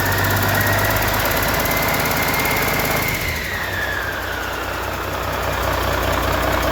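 A 1997 Cummins N14 Celect Plus 14-litre inline-six diesel engine runs with a high whine over it. The whine rises a little and then falls away. About halfway through the engine note drops lower and slightly quieter, then picks up again near the end.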